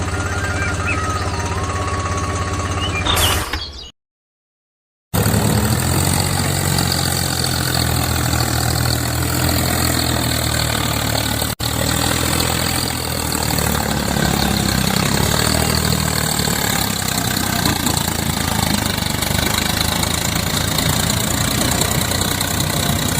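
A tractor-type engine running steadily. It cuts off abruptly about four seconds in, is silent for about a second, then runs on steadily with a low beat and a hiss.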